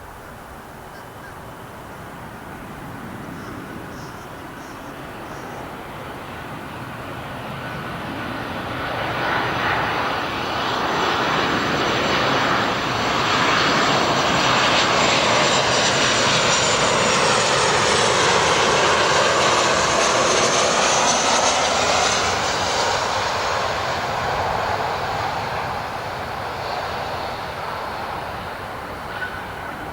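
Boeing 737-800 jet airliner landing, its CFM56 turbofan engines growing louder over about ten seconds, staying loud for about ten seconds as it passes with a sweeping, shifting hiss, then fading away.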